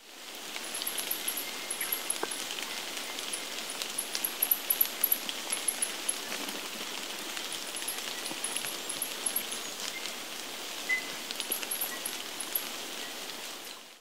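Forest ambience: a steady hiss of bush noise with a small bird giving quick runs of very high-pitched chips, repeated many times.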